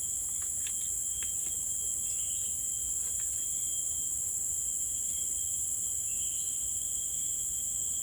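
Steady, high-pitched chorus of tropical forest insects, crickets or cicadas, trilling without a break. A second, lower insect note comes and goes, with a few faint ticks.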